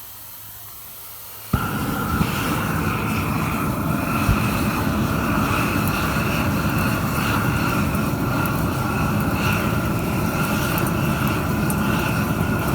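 Tractor-mounted propane burners lighting with a sudden pop about a second and a half in, then burning with a loud, steady rush of gas flame.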